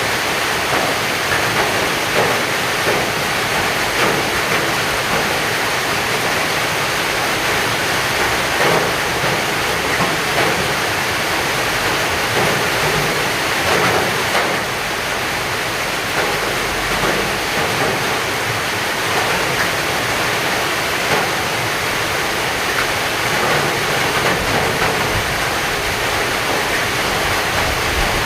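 Heavy rain pouring steadily, a dense even hiss with scattered sharper drop strikes.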